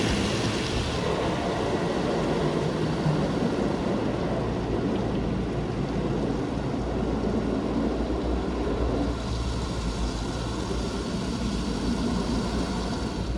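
Automatic car wash tunnel equipment running: a steady low motor hum under a broad rushing hiss, the hiss growing stronger again about nine seconds in.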